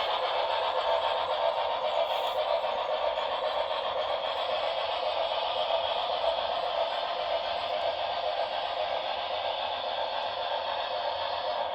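Model Santa Fe Blue Goose steam locomotive running with its passenger train: a steady rushing hiss with a light rattle.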